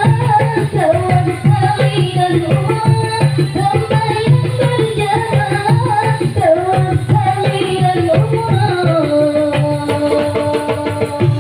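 Marawis ensemble: hand drums played in a fast, dense rhythm under a voice singing a wavering devotional melody. Near the end the singer holds one long note.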